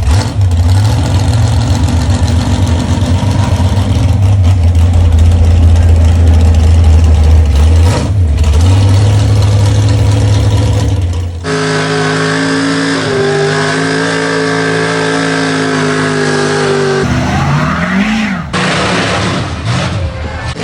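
Big pulling-truck engines. A heavy low rumble runs for about eleven seconds, then gives way abruptly to a steady engine note, with one quick rev rising and dropping near the end.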